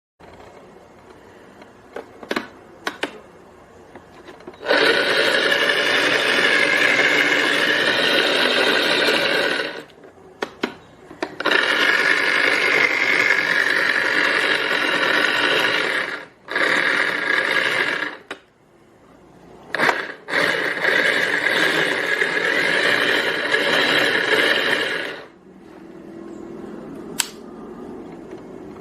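Brushed pressure-washer motor, run on 24 V DC through a PWM speed controller, whirring steadily in three runs of about five to seven seconds each, with sharp clicks in the quieter gaps between runs.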